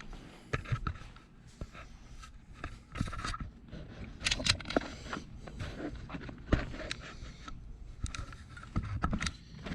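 Scattered clicks, knocks and short scrapes of carburetor parts and hand tools being handled on a workbench during a carburetor teardown.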